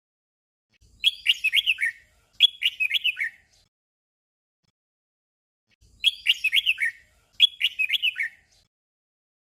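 Red-whiskered bulbul singing its short doubled song: two quick warbled phrases back to back. The song comes twice, with about two and a half seconds of silence between.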